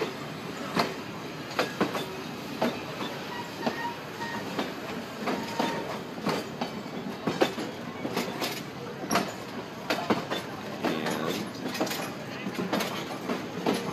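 Hobo Railroad excursion train rolling past slowly, its wheels clicking and knocking irregularly over the rail joints.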